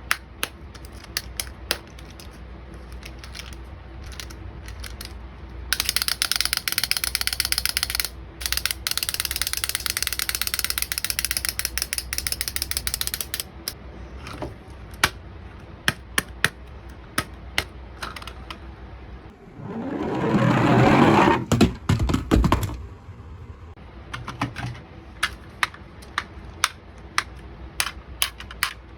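Small mechanical walking toys clicking and clattering, with scattered ticks and a stretch of fast continuous clatter lasting several seconds. A louder burst of noise comes about twenty seconds in.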